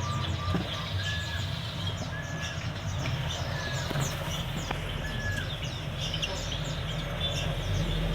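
Many caged songbirds chirping together, with short whistled notes every second or so, over a steady low hum.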